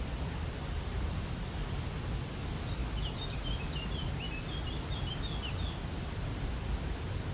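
Steady rush of a waterfall. A small bird sings a quick run of short chirps from about two and a half seconds in until nearly six seconds.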